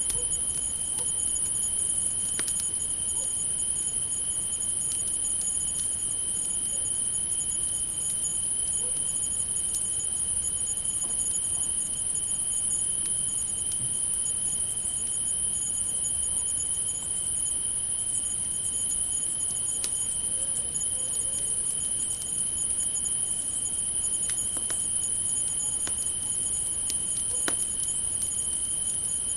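Crickets singing in a steady, unbroken high-pitched chorus at two pitches, with sparse small crackles and pops from a campfire.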